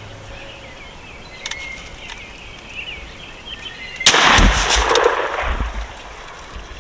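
A single gunshot from a hunting gun about four seconds in, fired at turkeys, followed by a second or two of echo dying away.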